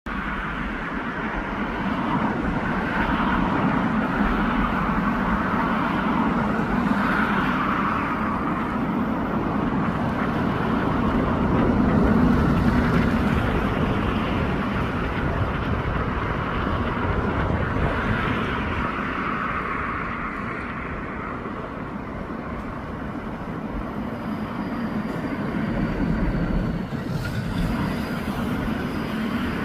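Steady road-traffic noise, with vehicles passing in slow swells every few seconds.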